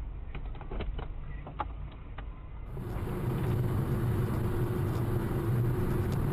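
Car engine running steadily with a low hum, with a few sharp clicks in the first seconds. About three seconds in, a louder, steadier engine drone takes over.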